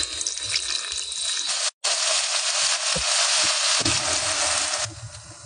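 Diced bell peppers and tomatoes sizzling in oil in a frying pan: a dense hiss that breaks off briefly under two seconds in, then carries on and drops to a quieter sizzle near the end. The hiss before the break comes as a handheld electric frother beats eggs in a bowl.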